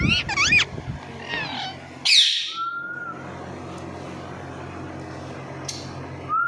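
Parrot calling: quick warbling calls in the first second, a loud harsh squawk about two seconds in, then a short steady whistle. A steady low hum runs underneath.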